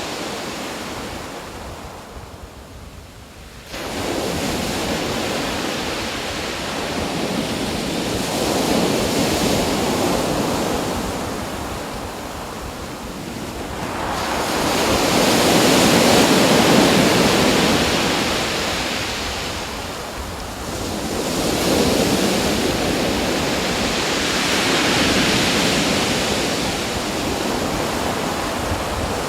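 Waves breaking and washing in, a rushing noise that swells and eases every few seconds. About four seconds in it jumps suddenly louder after a quieter dip.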